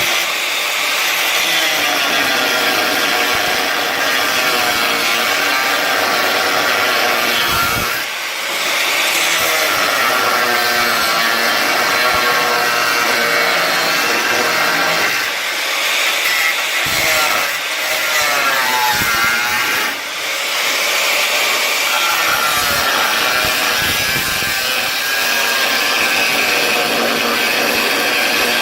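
Angle grinder with a cutting disc slicing through a steel strengthening plate in a car body. It runs continuously, its pitch wavering as the disc bites, and eases off briefly twice.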